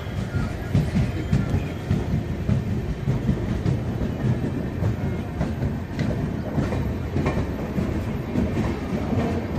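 Passenger train of LHB coaches hauled by an electric locomotive rolling past, a steady low rumble with wheels clacking over rail joints.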